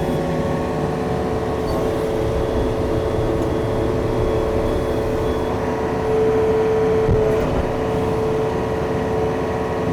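Yanmar diesel machine engine running steadily under way, with a steady whine over the engine sound; it grows slightly louder about six seconds in for a second or so.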